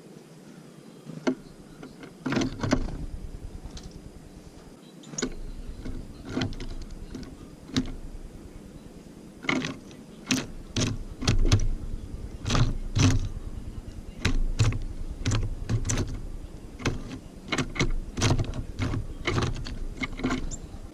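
Tits landing and pecking at a feeder close to the microphone: many irregular sharp clicks and knocks, some in quick clusters, over a low rumble that sets in about two seconds in.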